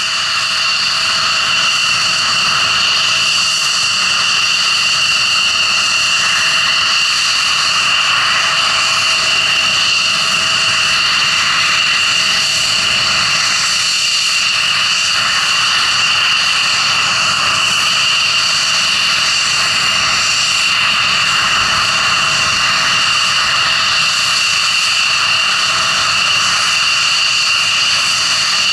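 F-16 Fighting Falcon jet engine running with a steady high-pitched whine over a rushing roar, the pitch and loudness holding constant.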